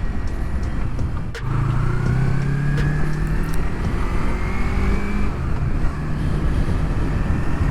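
Yamaha MT-03 parallel-twin motorcycle engine under way: after a brief click about a second and a half in, the engine note rises steadily for a few seconds as the bike accelerates, drops about five seconds in, and then runs steady, over a constant low rumble of riding noise.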